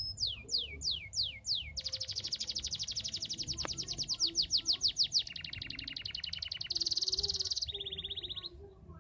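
Domestic canary singing a continuous run of trills. It opens with about six slow downward-sliding whistles, moves into a fast roll of repeated notes at roughly ten a second, then switches through lower and buzzier rolls before stopping near the end.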